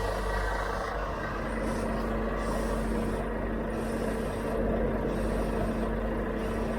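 Heavy diesel truck engine running steadily, with a constant hum and no change in revs.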